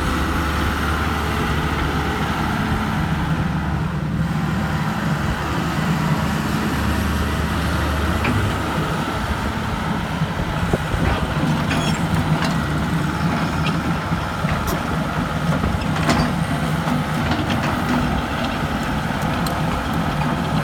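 Diesel engine of a John Deere 160C LC excavator running steadily.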